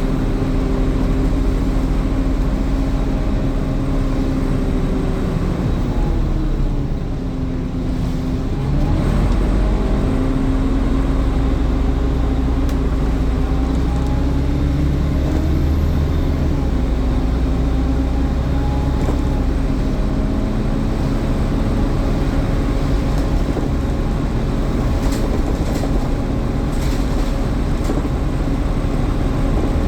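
Scania N230UD OmniCity double-decker bus heard from on board, its engine running under way with a steady fan whine. About six seconds in the engine note falls and dips as the bus slows. Two or three seconds later it rises again as the bus pulls away.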